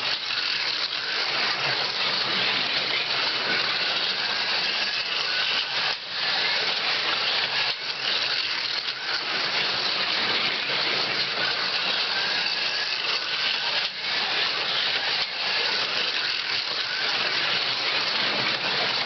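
Carrera Go 1:43 slot cars running around a plastic track: a steady buzzing rattle of small electric motors and cars on the track, with a few brief dips.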